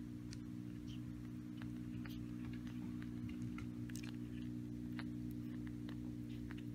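Newborn puppies suckling at their mother's teats: small, irregular wet clicks and smacks over a steady low hum.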